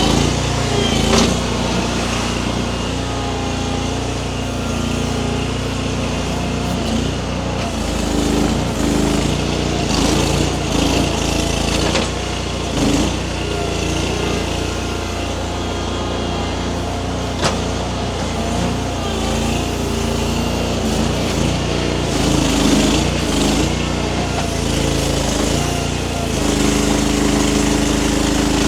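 Baumalight mini skid steer's small engine running under load, its pitch rising and falling as the grapple works at a tree, trying to wiggle it out of the ground. A couple of sharp knocks, one about a second in and one past the middle.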